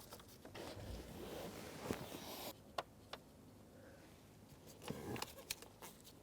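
Light clicks, taps and plastic rubbing as the ignition lock cylinder is worked up into its plastic housing in the steering column, with a cluster of clicks about five seconds in.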